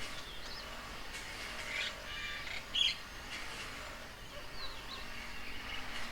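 Birds chirping and calling: short chirps and brief whistled notes scattered through, with one louder sharp call about three seconds in.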